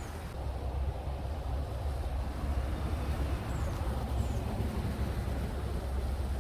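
Steady low rumbling noise, with a few faint, brief high chirps.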